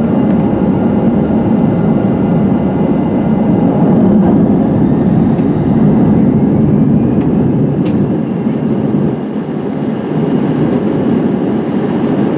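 Cabin noise of an Airbus A320-211's CFM56 turbofan engines at high takeoff power, heard from inside the passenger cabin. It is a steady, loud low rush with faint steady whining tones above it.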